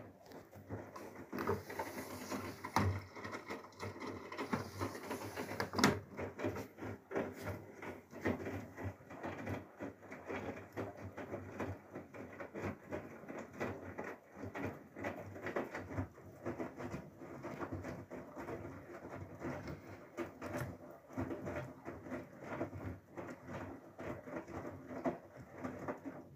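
Whirlpool FSCR90425 washing machine running a Synthetics 40°C wash: a steady low hum under a dense, irregular patter and clicking from the drum and its load. It stops suddenly at the very end.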